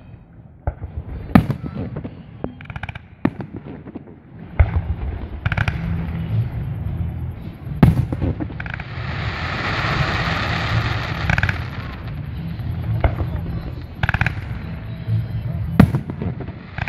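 Aerial fireworks display: sharp bangs of shells bursting every few seconds over a continuous low rumble, with a stretch of crackling hiss about three seconds long in the middle.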